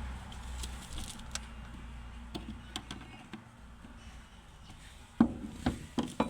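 Handling noise as a fuel pump assembly is pushed into the fuel tank: scattered light clicks and taps, then several louder knocks near the end. A low hum runs under the first half.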